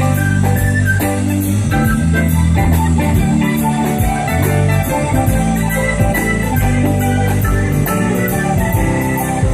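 Instrumental break of a pop-rock song: plucked guitar lines over bass and a drum kit keeping a steady hi-hat beat.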